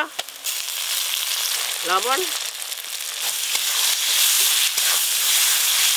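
Chopped tomatoes dropped into hot oil in a kadai, setting off a sizzle that starts about half a second in and grows louder. A few scrapes of a metal spatula stirring the pan come through as the sizzling continues.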